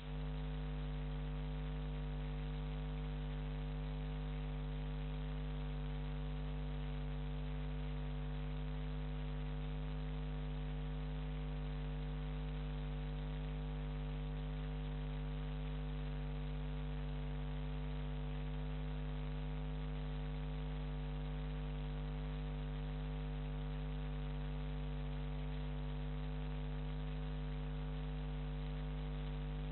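Steady electrical mains hum with a low buzz and hiss, unchanging throughout.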